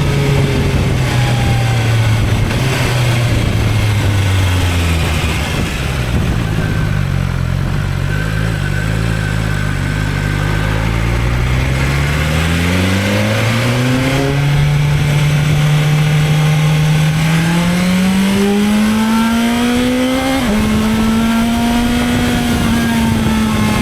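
BMW S1000XR motorcycle's inline-four engine heard from the rider's seat. The revs fall over the first few seconds as it slows, stay low for a while, then climb twice under acceleration. About twenty seconds in, the pitch drops suddenly at a gear change and the engine then runs steadily, over a steady rush of noise.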